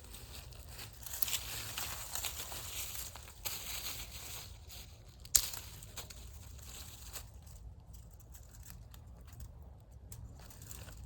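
Twigs, bark and dry leaves crackling and rustling as a dead birch branch is pulled and broken down from a tree, with one sharp snap about five seconds in.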